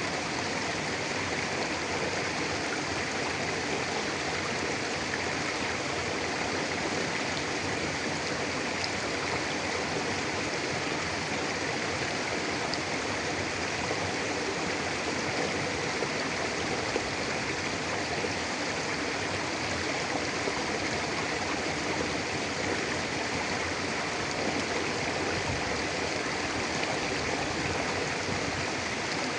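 Mountain river flowing steadily over rocks: a constant, even rush of water.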